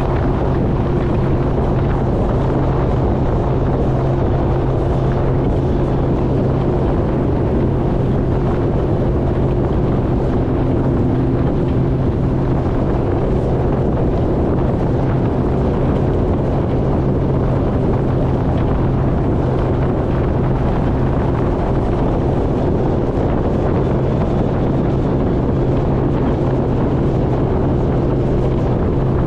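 Jet ski engine running at a steady cruising speed, an even drone that holds the same pitch throughout, with wind buffeting the microphone.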